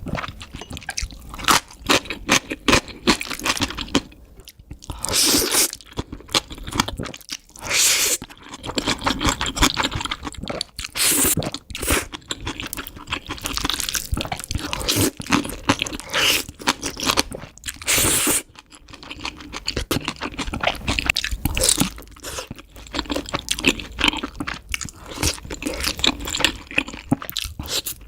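Close-miked eating sounds: repeated crunchy bites and chewing, with wet, squishy mouth sounds in between.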